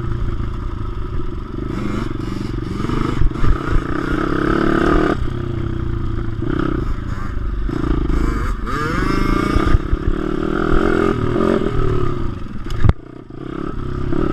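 Pit bike's single-cylinder four-stroke engine revving up and falling back repeatedly as it is ridden round a track, with rattles from the bike. A sharp knock near the end, after which the sound briefly drops.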